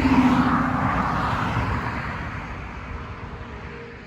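A car driving past, loudest at the start and fading away over about four seconds.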